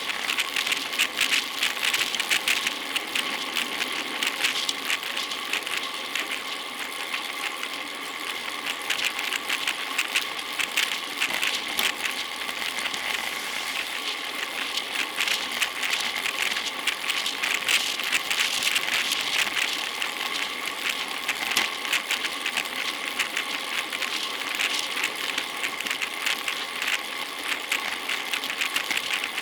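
Road bicycle in motion: rapid, dense mechanical ticking and rattling from the bike's drivetrain and hardware, continuous and even.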